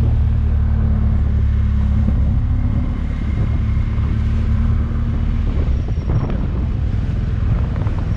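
Motorcycle engine running at a steady road speed with wind rush; the steady engine note turns rougher and more uneven about six seconds in.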